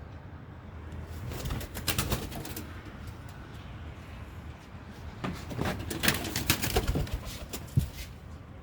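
A pigeon flapping its wings in two flurries of rapid beats, a short one about a second in and a longer one from about five seconds in, ending with a sharp knock.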